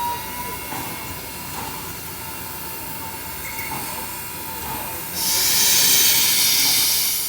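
Railway locomotive venting a loud burst of hiss, most likely steam, starting suddenly about five seconds in and lasting about two seconds over a steady background rumble.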